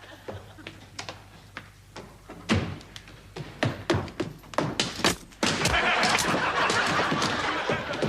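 A run of heavy thuds and bangs of household things being smashed up, coming faster and faster. About five and a half seconds in, they merge into a long, continuous din of crashing and breaking.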